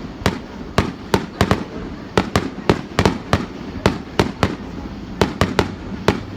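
Fireworks going off in quick, irregular succession: sharp bangs about three a second over a steady low rumble.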